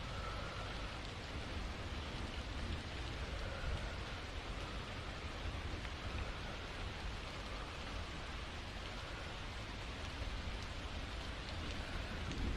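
Steady rain falling, an even hiss with a deep low rumble underneath.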